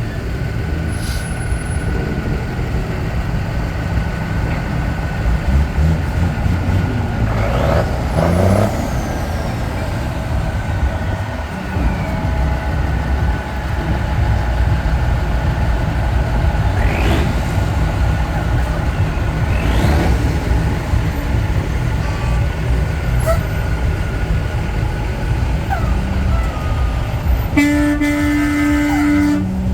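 Heavy trucks' diesel engines rumbling steadily as they roll past in a slow procession, with a few rising and falling sweeps. An air horn sounds for about two seconds near the end.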